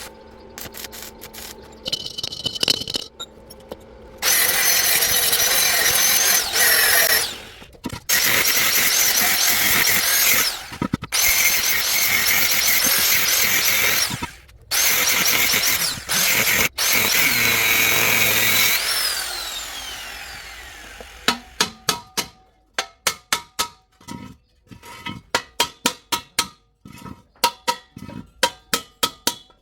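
A power tool cutting into metal in several loud stretches that stop abruptly, then winding down with a falling whine. After that comes a quick series of sharp strikes on metal, each with a short ring.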